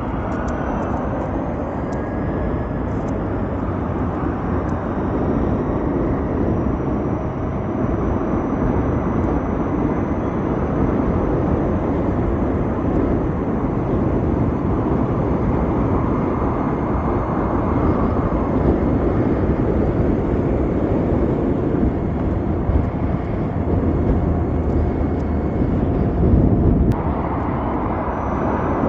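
Riding an Ather 450X electric scooter: a steady rush of wind buffeting the microphone and road noise from the tyres, with a faint thin whine under it. A slight bump in loudness comes near the end.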